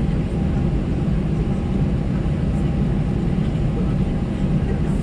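Steady low rumble of an Airbus A320-214 heard from inside the passenger cabin while taxiing, its engines at low taxi power, with a faint steady whine above the rumble.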